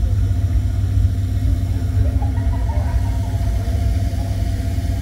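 Car engine idling with a steady low rumble, and faint voices in the background.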